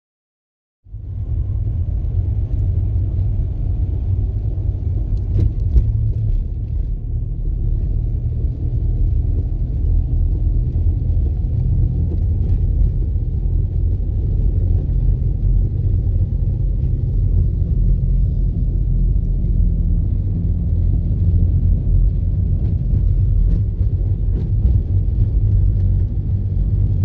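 Car driving along: a steady low rumble of engine and road noise that starts suddenly about a second in.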